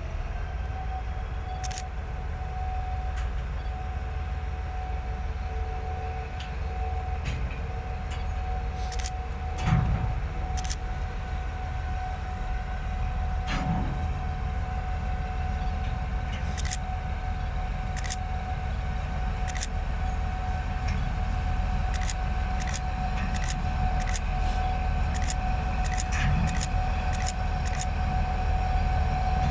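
Train at a railway station: a steady low rumble with a constant whine and scattered sharp clicks, slowly growing louder.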